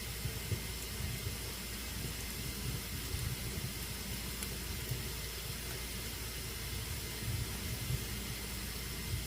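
Fire burning in a fireplace: a steady hiss with a low rumble and a few faint pops.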